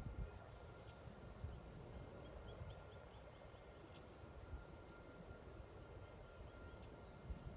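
Faint outdoor ambience: a bird giving short, high, arched chirps about once a second or so, with a quick run of small ticks between two and three and a half seconds in, over a low rumble.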